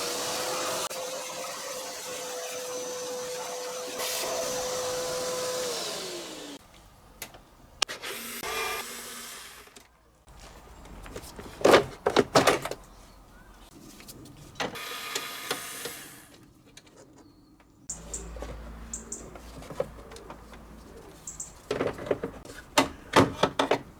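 Vacuum cleaner running with a steady whine, which falls away as it is switched off about six seconds in. After it come scattered knocks and clatter, with a couple of short bursts of noise.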